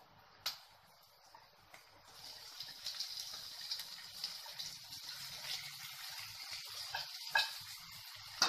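Chopped tomatoes sizzling in hot oil with frying onions in a pan. The sizzle rises about two seconds in and holds steady, with a few sharp clicks, one early on and two near the end.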